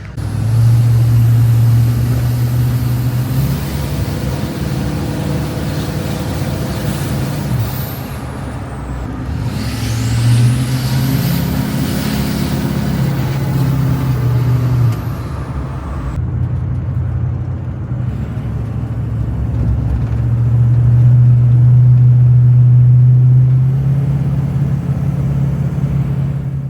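Old truck's engine running as it is driven, loud and steady, its note rising and falling several times with the throttle.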